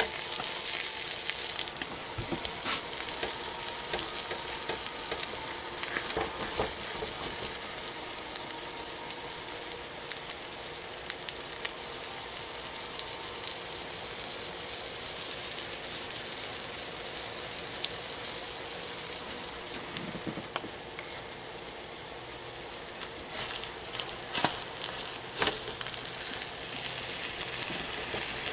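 Tuna-and-egg mixture frying in hot oil in a skillet: a steady sizzle, with a few sharp clicks near the end.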